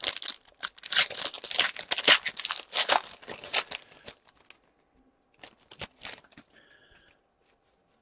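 Foil trading-card pack being torn open and crinkled by hand for about four seconds, followed by a few light clicks and rustles of cards being handled.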